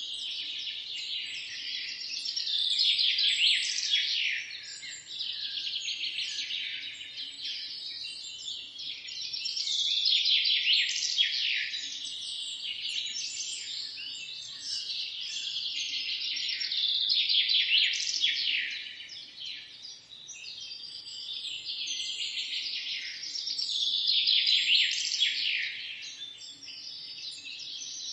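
A chorus of many small birds chirping and singing at once, a dense tangle of quick high chirps and trills that swells louder and fades back every several seconds.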